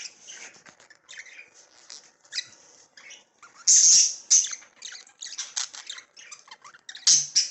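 Budgerigar chicks squawking and chirping in short, harsh, scratchy calls, with one louder squawk about four seconds in and another near the end: the raspy begging of chicks being fed by their father.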